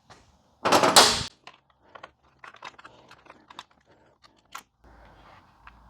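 A short, loud clatter of hand tools about a second in, then a run of light, irregular metallic clicks and ticks as a screwdriver works on the motorcycle's tail-section screws.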